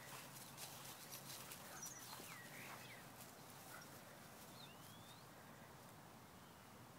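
Near silence, with a few faint bird chirps and soft ticks during the first half.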